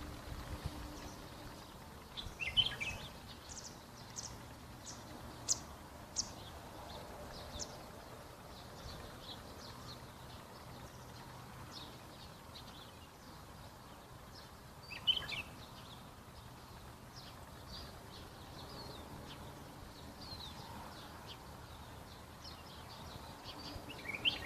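Birds chirping in the countryside: many short, high chirps throughout, with a louder call about two seconds in, another around the middle, and one near the end, over a faint steady background noise.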